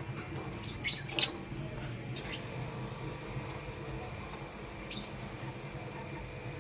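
Lovebirds giving short, high, squeaky chirps: a quick pair about a second in, the loudest, then single chirps around two and five seconds in.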